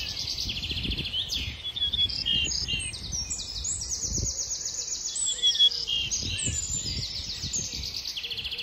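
Songbird singing, a busy run of repeated chirps and buzzy trills almost without a break, over a low rumble of noise on the microphone.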